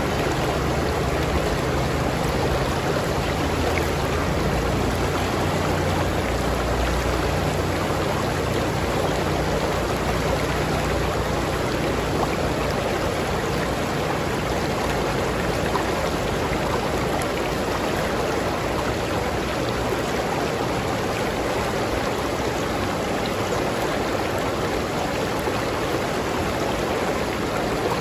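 River water flowing steadily, an even rushing and burbling. A low rumble sits underneath for the first ten seconds or so and fades out.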